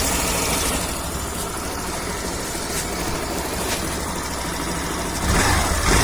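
Suzuki Access 125 BS6 scooter's single-cylinder four-stroke engine idling steadily with no cam chain rattle, its timing chain tensioner newly replaced. A short louder sound comes near the end.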